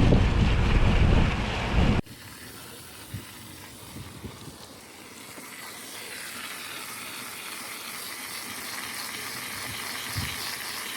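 Garden hose spraying water through a microchannel condenser coil from the inside out, washing the dirt out. It is loud for about two seconds, then drops abruptly to a much quieter hiss with a few light knocks, and the hiss slowly grows toward the end.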